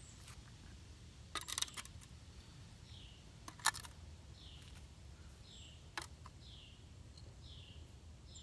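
A few sharp clicks and rattles of small hard objects being handled: a short cluster about one and a half seconds in, then single clicks near the middle. Under them a bird repeats a short, high, falling chirp about every half second or so.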